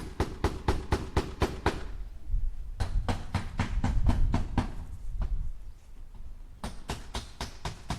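Hammer driving nails into wood: quick runs of sharp blows, about four or five a second, with a heavier low thudding stretch in the middle and a short pause before the blows start again near the end.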